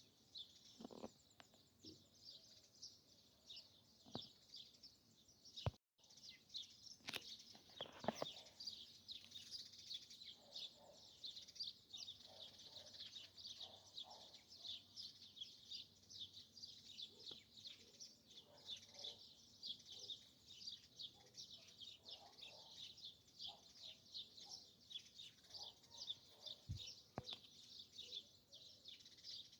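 Faint forest dawn ambience: a dense, continuous chorus of rapid high-pitched bird chirps, with scattered lower calls and a few sharp clicks. The sound cuts out for a moment about six seconds in.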